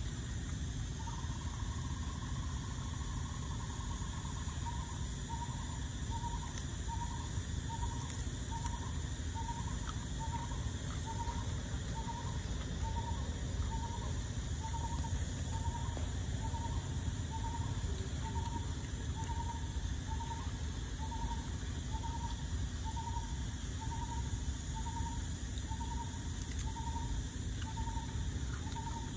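A bird repeats a single hooting note about twice a second, over a steady insect drone and a low rumble.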